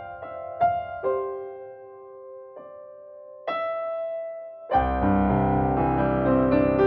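Background piano music: sparse single notes that thin out, then about two-thirds of the way through a fuller, louder passage with bass and sustained chords comes in.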